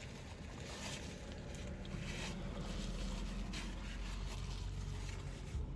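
Close-up chewing of a bite of bacon cheeseburger, wet mouth sounds over a steady low hum.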